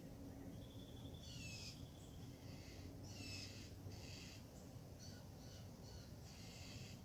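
Faint songbird singing short, repeated phrases about every two seconds, turning to quicker short notes in the second half, over a steady low background hum.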